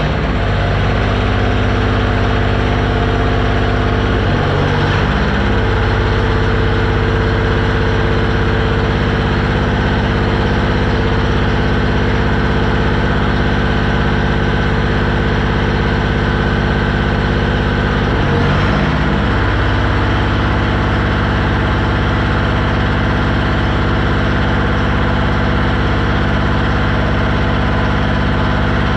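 Gehl paver's engine running steadily just after starting. Its note shifts briefly twice, about four seconds in and again around eighteen seconds in, as the machine is run to roll its track.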